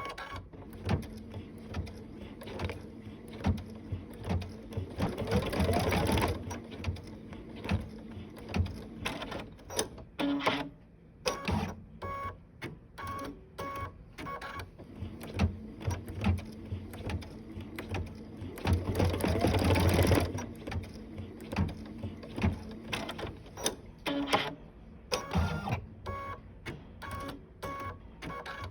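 Sewing machine stitching in short stops and starts, with mechanical clicks and knocks between stitches. Twice it runs faster for a second or two, its motor whine rising in pitch.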